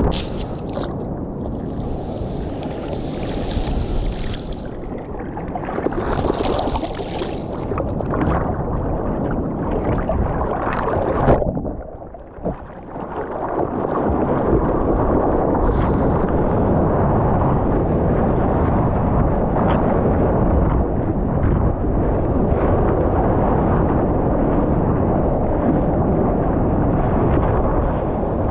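Wind buffeting a GoPro's microphone over rushing, splashing seawater in the surf. The noise is steady and loud, and drops away briefly about twelve seconds in.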